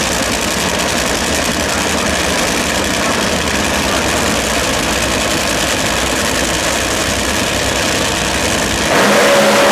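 Loud drag-racing engine running at the track, a steady, noisy rumble that gets louder about nine seconds in, with a tone that falls slowly.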